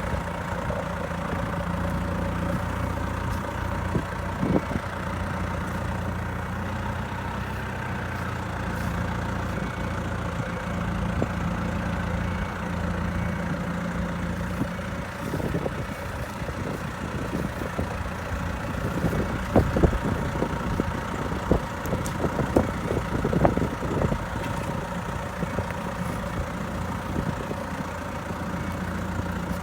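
Hydrema 912 site dumper's diesel engine running steadily at low revs, with sharp knocks and clatters in the second half.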